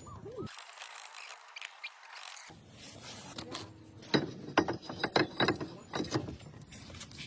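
Hand tools working on car brake hardware: an uneven run of about eight sharp metallic clicks and knocks starting about four seconds in, with quieter handling noise before it.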